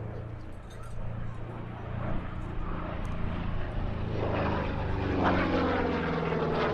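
Piston-engined propeller aircraft flying past. Its engine note grows steadily louder, then from about four seconds in drops in pitch as it passes.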